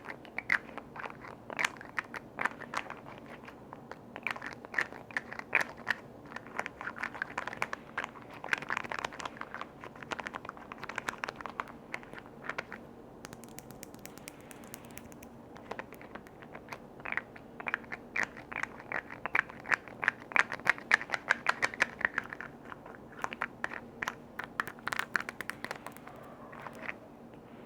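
Rapid ASMR tapping and scratching on container lids, in quick runs of close-spaced taps, with a brief soft hiss about halfway through.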